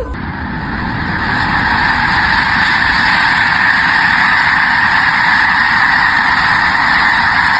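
A large flock of birds calling all at once, a loud, dense, unbroken din.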